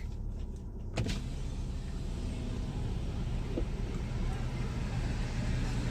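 Car idling, heard from inside the cabin: a steady low hum under an even hiss, with a single sharp click about a second in.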